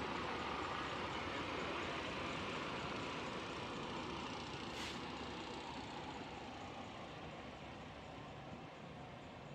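Steady running noise of a heavy truck, a 2018 Freightliner Cascadia with a Detroit DD15 engine, slowly fading, with a short sharp hiss of air about five seconds in, as from the truck's air brake system.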